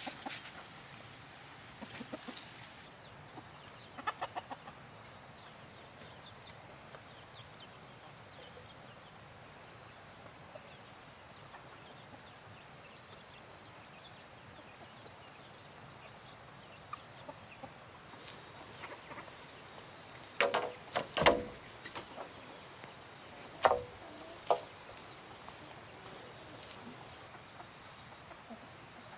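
Chickens clucking now and then, loudest in a cluster about two-thirds of the way through, over a steady high-pitched drone.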